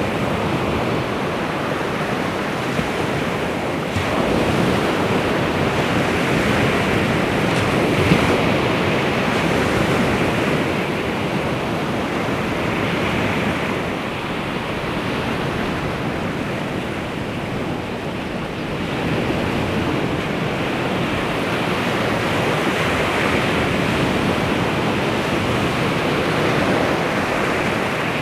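Baltic Sea waves washing onto the shore in a continuous rush that slowly swells and ebbs, with some wind.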